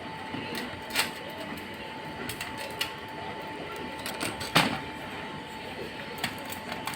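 Scattered clicks and knocks of hard parts being handled, four or so spread apart, the loudest past the middle, over a faint steady whine.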